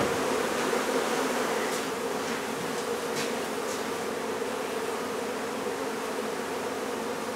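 Loud steady hum of a large mass of honey bees in flight around an opened hive, with a sharp click right at the start.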